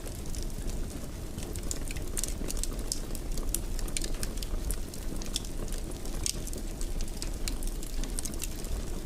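Wood fire crackling in a fireplace: a low, steady rumble of flames with frequent small, sharp pops scattered at irregular intervals.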